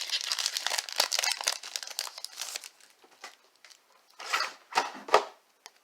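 Trading card pack wrapper crinkling and being torn open, with dense crackling for the first couple of seconds, then two short rustles near the end as the cards are handled.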